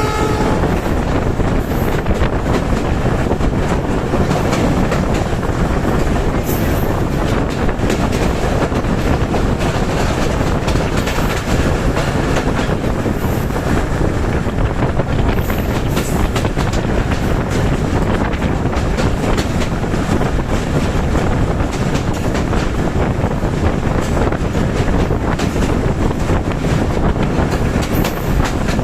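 Passenger train rolling along the rails: a loud, steady rumble of wheels with clickety-clack over the rail joints. The train horn cuts off just as it begins.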